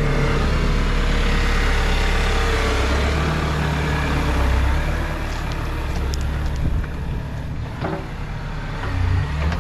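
Bobcat E60 compact excavator's engine running steadily as the machine swings, a low drone that eases off slightly about five seconds in, with a few short knocks in the second half.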